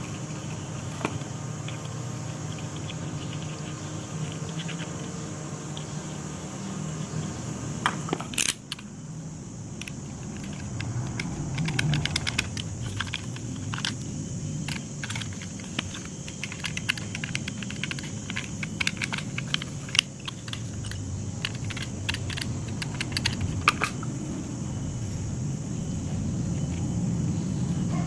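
Scattered light clicks and clinks of small hard parts being handled, over a steady low rumble.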